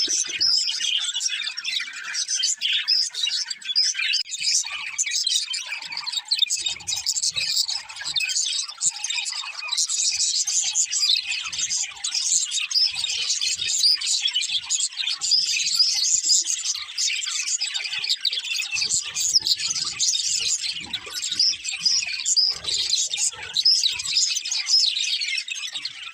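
Several budgerigars chirping and chattering together, a dense, continuous twittering.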